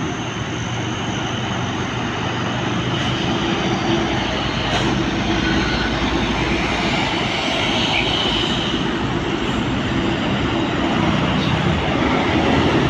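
Heavy diesel truck carrying an excavator, its engine running under load as it passes, growing slowly louder.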